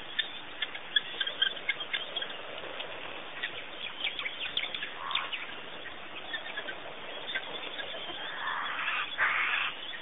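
Wild birds chirping and calling: many short, high calls throughout, with a louder, noisier call near the end.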